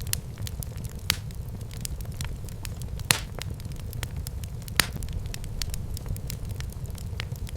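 Wood fire burning in a fireplace: a steady low rumble of the flames with frequent sharp crackles and pops, three louder pops at about one, three and nearly five seconds in.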